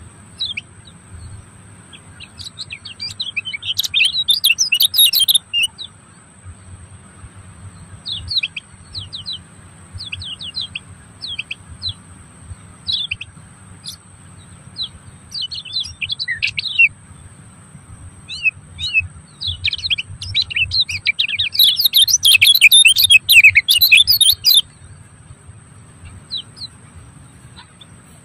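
Birds chirping in quick, high, twittering notes, with two longer busy bursts of song, one a few seconds in and one about twenty seconds in. Under them run a low steady hum and a faint, steady, very high whine.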